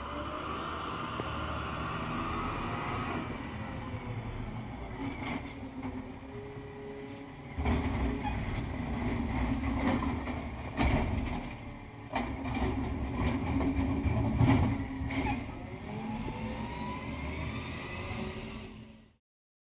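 McNeilus ZR automated side-loader garbage truck on a Freightliner chassis at work: the engine runs and the hydraulics whine in rising and falling tones, with several sharp knocks and bangs in the middle. The sound cuts off suddenly near the end.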